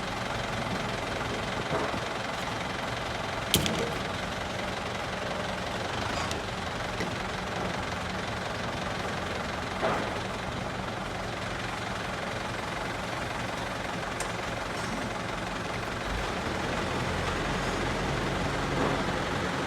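Tractor diesel engine running steadily, with a sharp knock about three and a half seconds in and a softer one around ten seconds; the low engine note grows stronger near the end.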